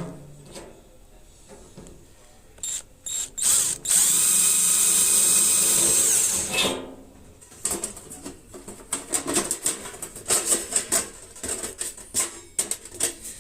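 Electric drill working on a sheet-metal tin: two short trigger blips, then a steady whine for about two and a half seconds that winds down as the trigger is released. After it comes a run of irregular light knocks and clicks.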